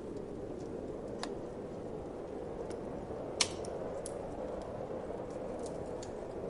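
Wood fire crackling, with scattered sharp pops, the loudest about three and a half seconds in, over a steady whoosh of wind.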